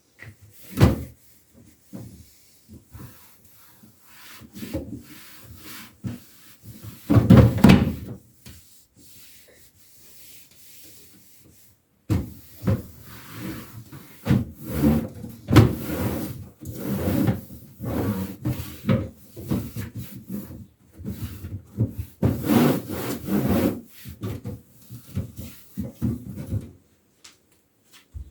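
Refrigerator being cleaned out: plastic drawers, shelves and containers knocking, sliding and being rubbed, in irregular bursts. The loudest clatter comes about seven seconds in, with a quieter stretch just after.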